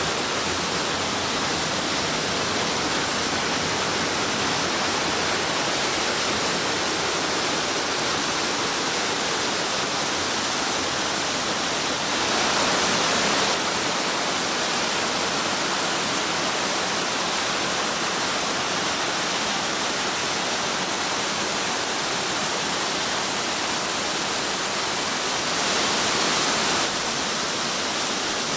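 Steady rushing of a waterfall, briefly louder twice for about a second each.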